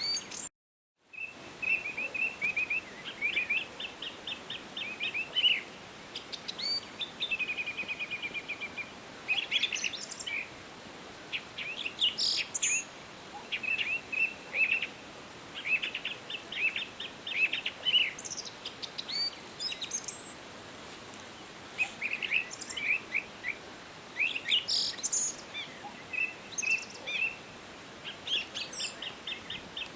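Songbirds singing: a dense mix of quick, high chirps and rapid trills from several birds, over a faint steady hiss. Near the start the sound cuts out completely for about half a second.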